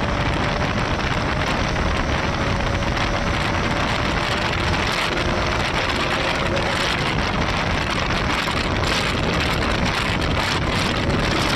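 Heavy wind rush over a helmet-mounted earphone mic on a motorcycle ridden at high speed in fifth gear, with the Bajaj Pulsar RS200's single-cylinder engine a faint steady tone underneath.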